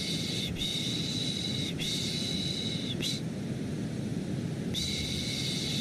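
A voice shushing in long, repeated 'shhh' sounds, each about a second, over a steady deep white-noise hiss. Three shushes follow one another, then a pause of about a second and a half, then the shushing starts again near the end.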